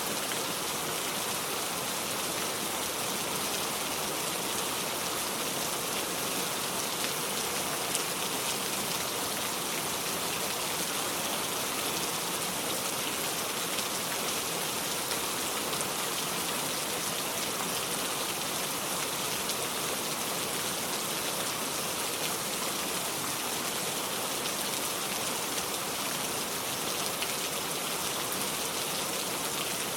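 Heavy rain falling steadily on a metal roof: an even, unbroken hiss of drops.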